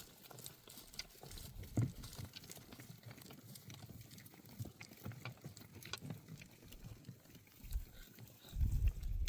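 Livestock hooves stepping over stony ground: scattered light clicks and knocks, with one louder knock about two seconds in. A low rumble rises near the end.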